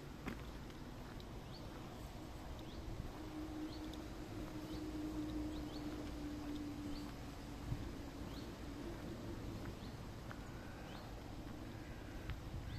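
Outdoor rural ambience: a bird chirping repeatedly in short high falling notes, about one every second, over a low steady rumble. A faint steady hum comes in from about three to seven seconds in.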